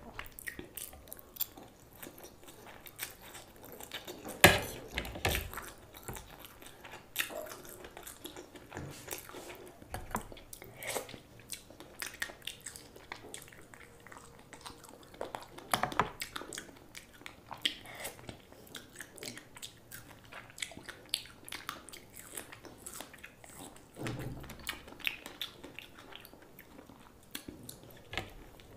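A person chewing and eating mouthfuls of chow mein noodles, with many short wet clicks throughout; the loudest comes about four and a half seconds in.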